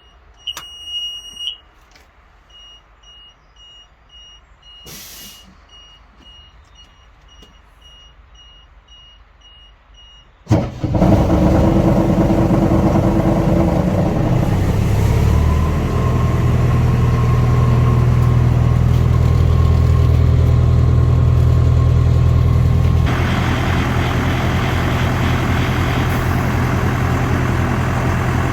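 An electronic warning beep sounds once for about a second, then short beeps repeat about twice a second. About ten seconds in, the pump unit's FPT (Iveco) N45 diesel engine cranks and starts abruptly, then runs steadily, its sound shifting about two-thirds of the way through.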